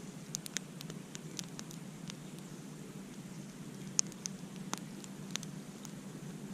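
Campfire crackling: irregular sharp pops and snaps over a steady low hiss, the loudest pop about four seconds in.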